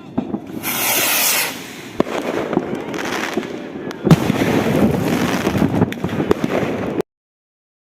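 Fireworks going off: sharp bangs, a loud hissing crackle about a second in, then a dense run of crackling pops and bangs from about four seconds until the sound cuts off suddenly near the end.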